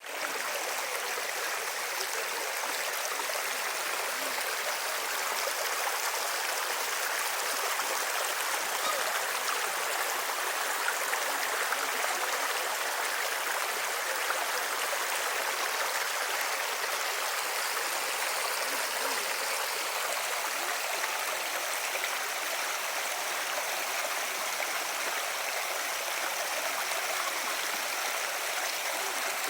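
Running water splashing steadily, a constant hiss like a small cascade or stream, with no change in level.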